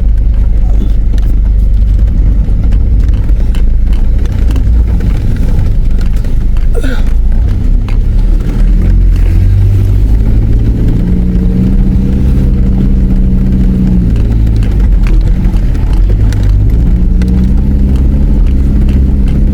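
Car engine and road rumble heard from inside the cabin while driving a rough dirt track. The engine note climbs and holds for a few seconds about halfway through, drops back, and climbs again near the end.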